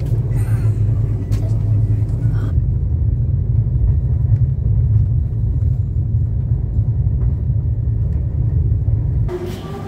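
Steady low rumble of a train coach in motion, heard from inside an air-conditioned sleeper berth. It stops abruptly near the end.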